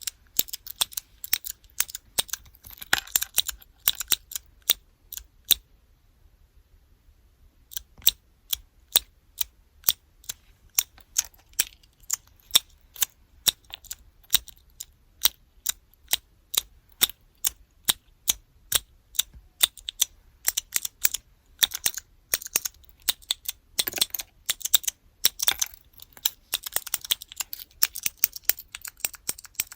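Keyboard-block keychains with blue (clicky) mechanical switches being pressed over and over, a sharp click at each press, about two a second. The clicking stops for about two seconds after about six seconds, and there are a few denser, scratchier flurries of clicks in between.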